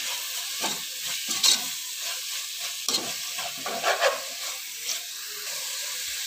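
Chicken pieces and tomato-spice masala sizzling in oil in a metal pressure cooker, with a spatula scraping the pot in a handful of irregular strokes as it is stirred.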